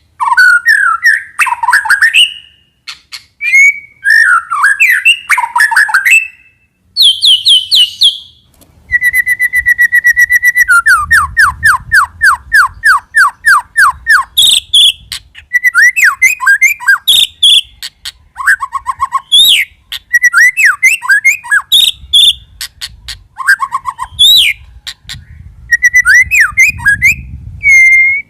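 White-rumped shama singing loudly: a varied run of rich whistled phrases, sweeping notes and chatters. About nine seconds in comes a rapid rattle of repeated notes that turns into a fast series of falling notes.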